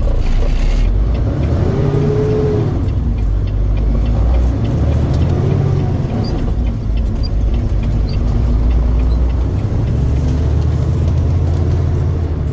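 A truck's engine and road noise while driving, a steady low rumble with the pitch rising and falling twice.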